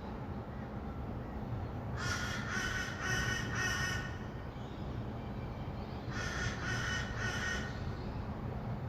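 A bird giving two bouts of harsh, repeated calls, about four notes in each: one about two seconds in and another about six seconds in. Under them runs the steady low hum of distant city traffic.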